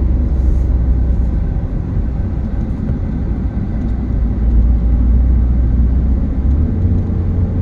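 Truck driving up a winding road: a steady low rumble of engine and road noise.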